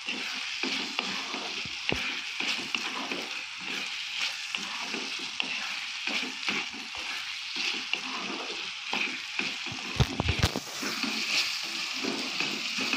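Diced potatoes and green peas sizzling in oil in a pan while a spatula stirs and scrapes them over the pan's bottom, with a few sharp knocks of the spatula against the pan about ten seconds in.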